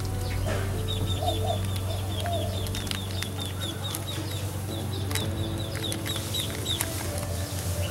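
Bird calling: a long run of quick, high chirps, about four or five a second, over a steady low hum.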